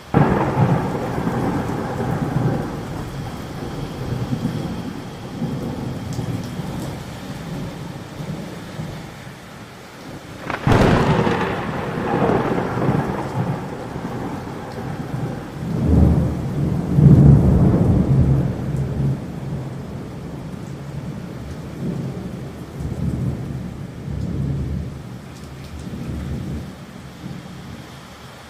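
Thunder over steady rain. A clap at the start rumbles away, a sharp crack comes about ten seconds in, and a long low rumble a few seconds later is the loudest of the three before it slowly dies down.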